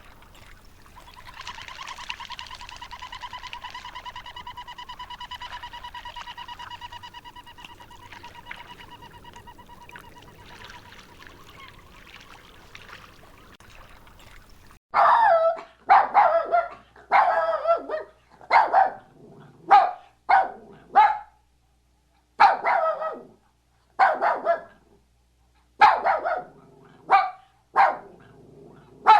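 A dog barking: a dozen or so loud, short barks with pauses between them, starting about halfway through. Before that, a fainter steady trilling tone from an unidentified animal.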